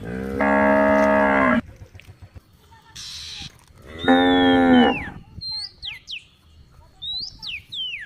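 A cow mooing twice, each call lasting about a second, the second about four seconds in. Between and over the moos a bird gives short falling whistled calls.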